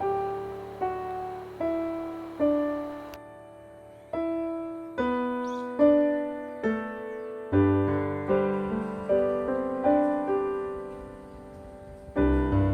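Background music: solo piano playing a slow melody of single struck notes that fade, filling out with lower notes and chords about halfway through.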